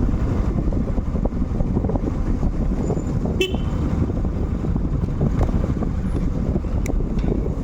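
Motorcycle on the move: steady engine and wind rumble, with a short horn toot about three and a half seconds in.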